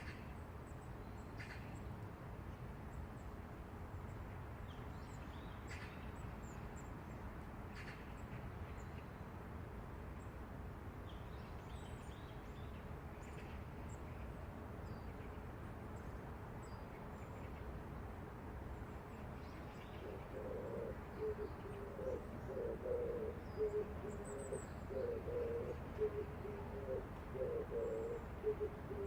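Steady low city rumble with small birds chirping faintly here and there; about two-thirds of the way through, a pigeon starts cooing, a low call repeated over and over.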